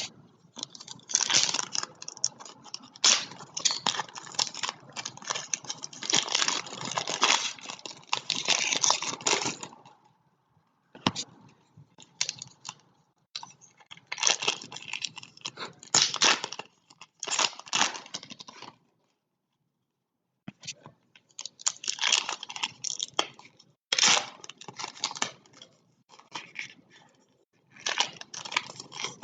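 Foil trading-card pack wrappers being torn open and crinkled, with the cards inside being handled. It comes in several spells of rustling and tearing, with brief pauses between them.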